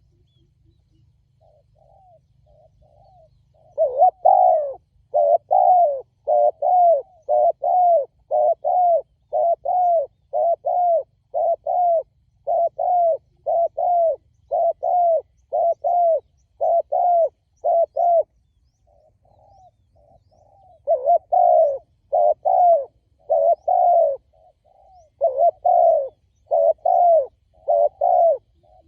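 Spotted dove cooing in a long run of short repeated coos, about one and a half a second. The coos are soft at first and loud from about four seconds in. They pause for a few seconds about two-thirds of the way through, then carry on.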